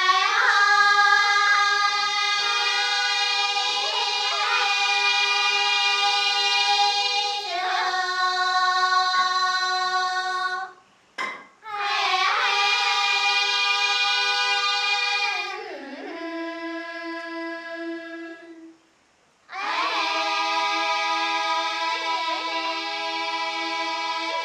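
Dong women's choir singing a polyphonic Grand Song in long held notes, a lower held line under a higher part. The singing breaks off briefly about ten seconds in, turns quieter, stops again near nineteen seconds, then comes back in.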